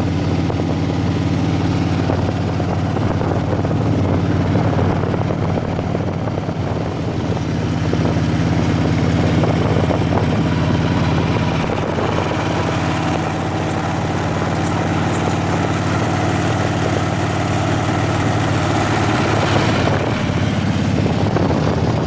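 Motorcycle engine running steadily under way, a constant low hum under a broad rushing noise.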